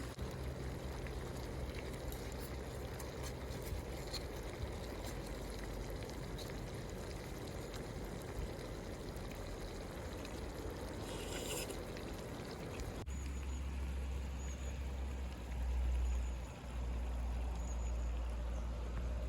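Water running or pouring steadily, then, after a sudden change about 13 seconds in, a steady low rumble.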